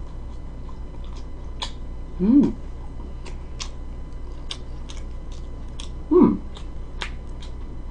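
A person chewing pizza with many short wet mouth clicks, making two brief vocal sounds that rise and fall in pitch, about two seconds in and about six seconds in.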